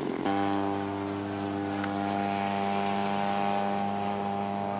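Radio-controlled scale model airplane's engine and propeller running at steady throttle, holding one constant pitch.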